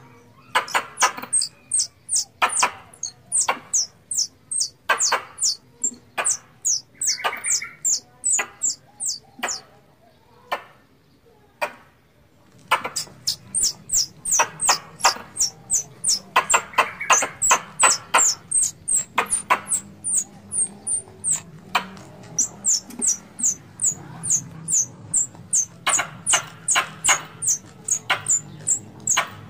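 Squirrel chattering calls used to lure squirrels for hunting: a long run of sharp, high chirps, each starting with a click and dropping quickly in pitch, about two to three a second, with a pause of two or three seconds near the middle.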